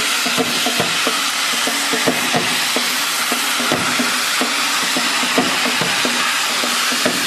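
Hand-held bamboo tube fireworks (tezutsu hanabi) spraying sparks: a loud, steady rushing hiss with irregular crackles and pops.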